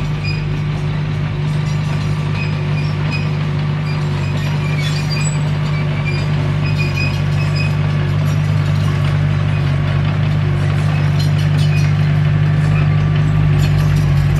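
Diesel engine of a crawler bulldozer running steadily under load, with scattered light metallic clinks from the tracks; it grows slightly louder toward the end.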